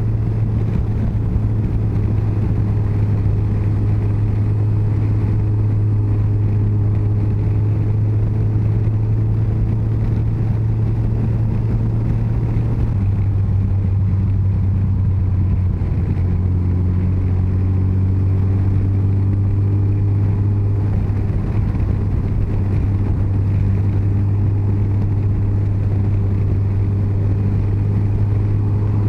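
Yamaha FJR1300's inline-four engine running steadily at cruising speed over a rush of wind and road noise. The engine note drops slightly in pitch about thirteen seconds in.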